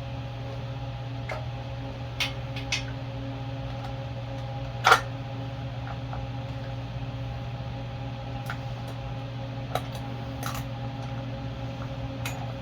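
Scattered clicks and taps of hand tools and bolts as the air filter housing is unbolted from a small engine, the loudest about five seconds in, over a steady low hum.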